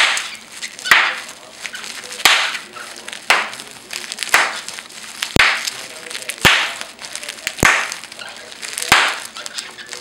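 A steady series of sharp pops, about one a second, each followed by a short breathy hiss: packing bubble wrap being popped alongside a cockatiel's attempts to imitate the popping.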